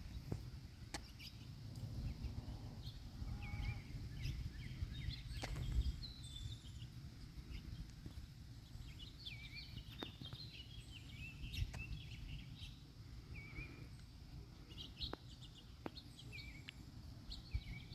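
Several small birds chirping in short, scattered calls over a steady low rumble, with a few sharp clicks.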